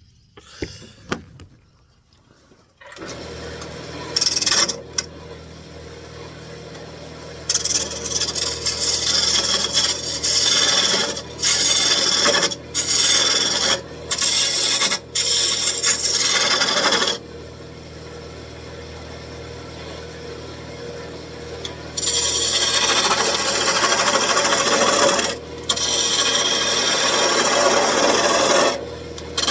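A wood lathe starts up about three seconds in and runs with a steady hum. A roughing gouge then cuts the spinning old wooden table leg in two long spells of loud scraping and shaving noise, with short breaks where the tool comes off, and only the motor hum between the spells.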